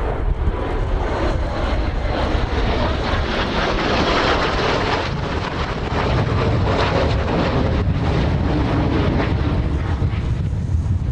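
Blue Impulse Kawasaki T-4 jet trainers passing overhead. Their jet noise swells over the first few seconds, peaks about four seconds in and eases near the end, with strong wind rumbling on the microphone throughout.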